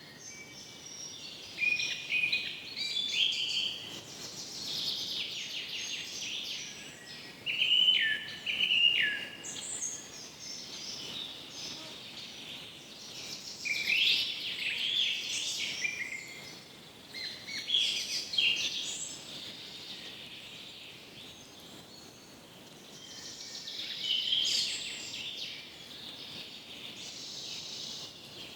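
Forest birds singing: bouts of quick, high chirps and trills every few seconds over a faint, steady background hiss.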